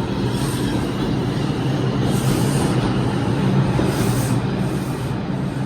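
New York City subway train (a 2 train) moving through the station, with a steady low motor hum over the rumble of the cars. Brief high-pitched wheel squeals come about half a second, two seconds and four seconds in.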